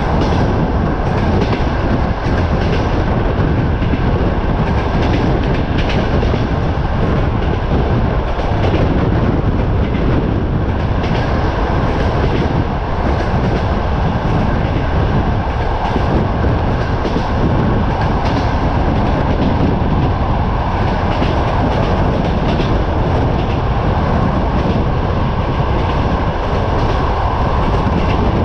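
Passenger train carriage running at speed, heard from an open window: a steady rumble and wind noise over the track, with occasional clicks of the wheels over rail joints.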